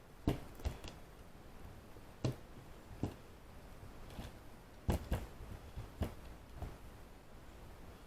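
Scattered light clicks and taps of a small casting being handled and worked out of its mold by hand, about eight separate handling sounds with quiet between them.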